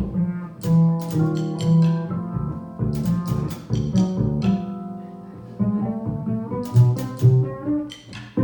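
Jazz combo playing, with plucked upright bass to the fore, held pitched notes above it and sharp drum and cymbal strikes.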